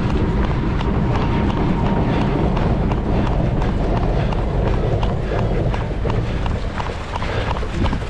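A runner's shoes striking wet pavement in a steady running rhythm, with wind rumbling heavily on the microphone.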